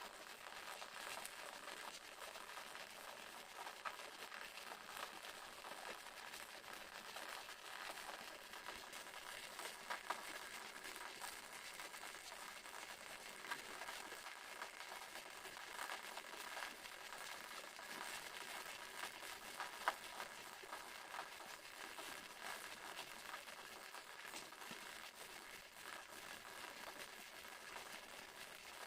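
Waterfall: a steady, faint rush of falling water, with a few brief ticks of splashing.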